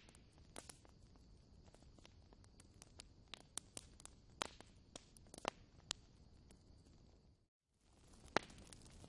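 Wood fire in a fireplace crackling, with irregular sharp pops over a soft hiss. The sound cuts out for a moment about seven and a half seconds in, then the crackling resumes.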